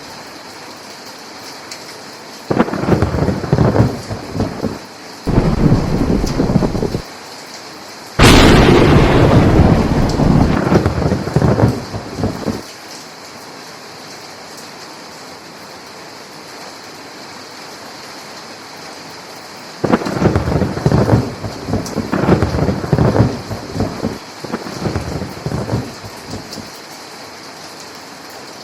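Steady rain with repeated rolls of thunder. The loudest begins with a sharp crack about eight seconds in and rolls on for about four seconds. Further rumbles come in two groups, one near the start and one in the second half.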